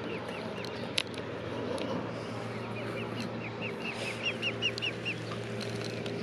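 Mute swan cygnets peeping: a quick run of short, high chirps, about five a second, strongest from about two seconds in to near the end. A single sharp click sounds about a second in.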